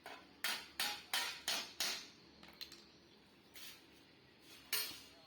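Hammer blows on the sheet-metal body of a motorcycle exhaust, beating dents back out: five quick strikes, each ringing briefly, then two more after a pause.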